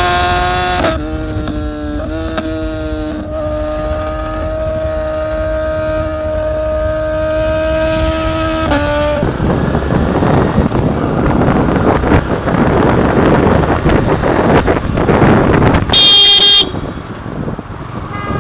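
A vehicle horn held for about nine seconds, then a motorcycle riding fast with heavy rushing noise, cut by one short, very loud, shrill horn blast near the end.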